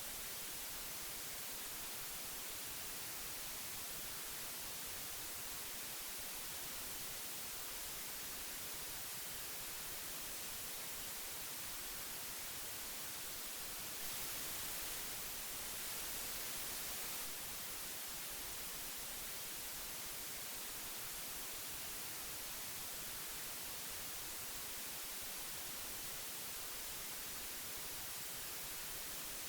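Steady tape hiss from old magnetic audio tape, an even high-pitched noise with no tones, growing slightly louder for a few seconds about halfway through.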